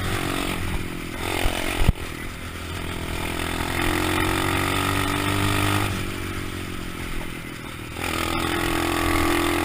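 A 125cc pit bike's small single-cylinder engine runs, its note changing in steps as the revs rise and fall. A sharp knock comes about two seconds in.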